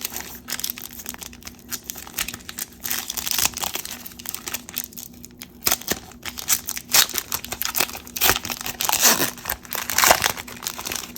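Plastic wrapper of a trading card pack crinkling and tearing as it is ripped open, with a busy, irregular crackle.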